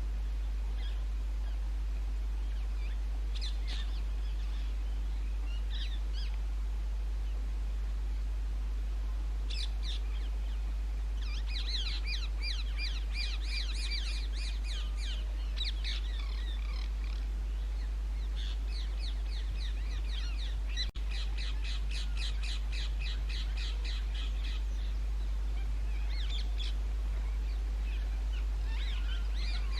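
Rose-ringed parakeets screeching in bouts of rapid, repeated shrill calls, with a steady low hum underneath.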